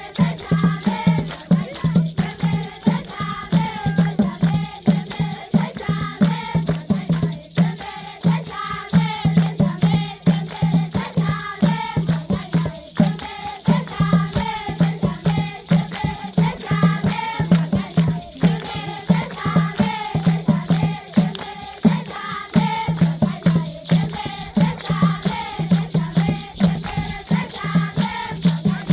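A group of children singing a traditional Zimbabwean rain-dance song, accompanied by shaken rattles and a steady pulsing beat.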